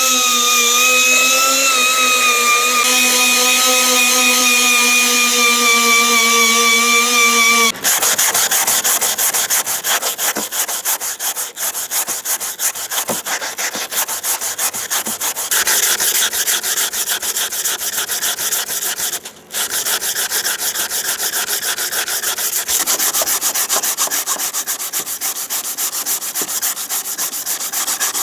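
A power tool runs with a steady whine, its pitch sagging slightly, for about the first eight seconds. Then it gives way to continuous abrasive sanding: rapid, even rubbing strokes with a brief pause about two thirds of the way through.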